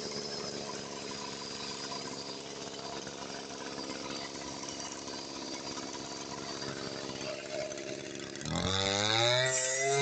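Brush cutter engine running steadily at low speed, then revved up about 8.5 seconds in, its pitch rising and wavering as the throttle is worked.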